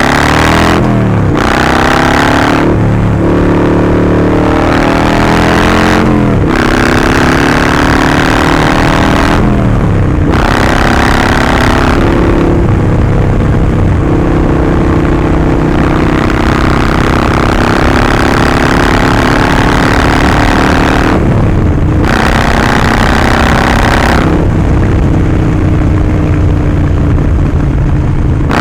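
Harley-Davidson Sportster 48's 1200 cc V-twin running through a Vance & Hines slip-on exhaust while riding. The engine note rises under throttle and breaks off briefly several times as gears are changed, and holds steady at cruising speed through the middle.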